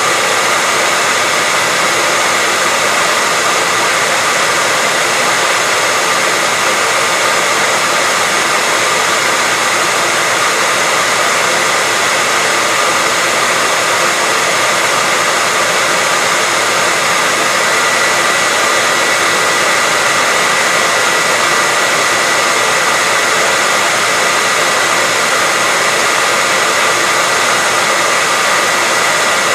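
Hair dryer running steadily: a constant rush of blown air with a steady high whine from the motor.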